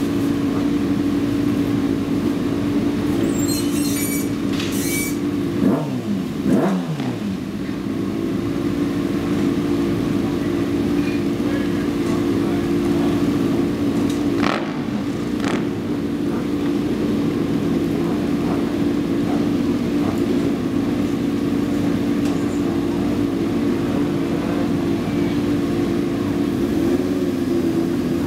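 Race sport-motorcycle engines idling steadily while they warm up on paddock stands in the pit garage, with a short falling sweep in pitch about six seconds in.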